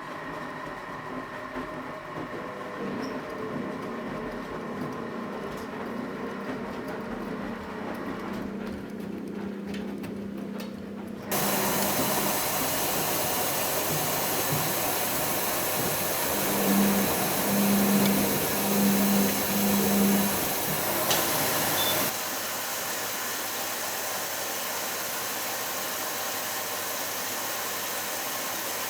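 Philco Bendix W84RX front-loading washing machine running its hot coloured-wash programme. At first there is a low motor hum. About 11 seconds in it changes suddenly to a louder, even rushing noise with four short hums about a second apart, then about 22 seconds in it drops suddenly to a quieter, steady hiss.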